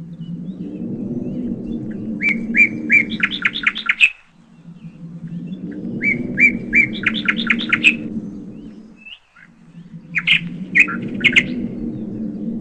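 A shrike calling in three bursts of quick, speeding-up chirps, about four seconds apart. Under it, a low hum swells and fades on the same four-second cycle.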